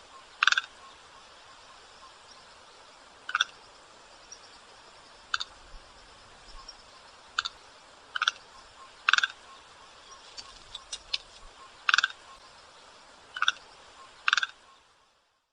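A bird giving about nine short, sharp calls at irregular intervals of one to three seconds, over a steady recording hiss.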